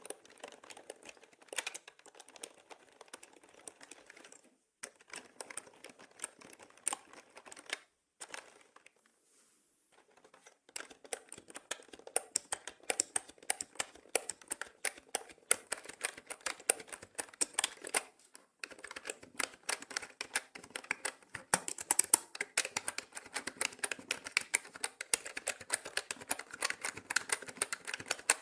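Mechanical keyboard keys clicking in fast, continuous typing. Lighter and broken up early on, with a pause of about two seconds shortly before the middle, then steady rapid keystrokes to the end.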